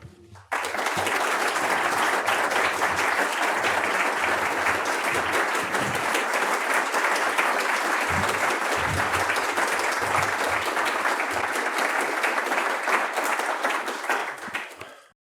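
Audience applauding steadily after a speaker is introduced, starting about half a second in and fading near the end before cutting off.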